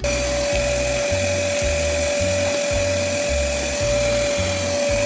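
Shop vacuum running steadily through a Delmar cyclone separator, a constant whine over a rushing hiss, cutting in sharply at the start. Background music with a repeating bass line plays underneath.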